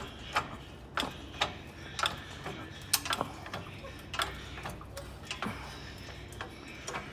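Sharp clicks and knocks at an uneven pace, roughly one or two a second: a car jack under a pickup truck being tightened and worked.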